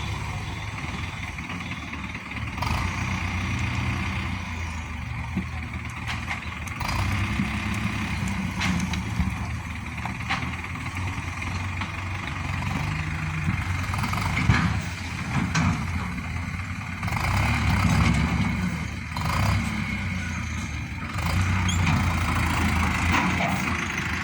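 Heavy diesel machinery engine running steadily, rising and easing in loudness while it works. Occasional sharp knocks and clanks are heard over the engine.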